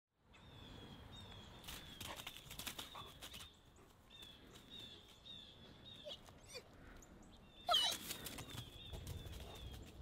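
Small birds chirping over and over, faint, with some light rustling, and one louder, sharper call about three-quarters of the way through.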